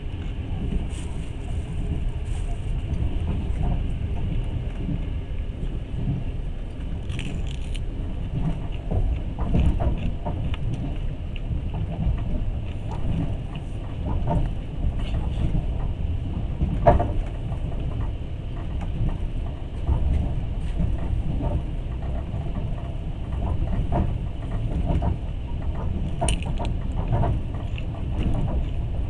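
Long-distance passenger train running along the track, heard from inside the carriage: a steady low rumble with scattered clicks, rattles and knocks, one sharper knock just past halfway.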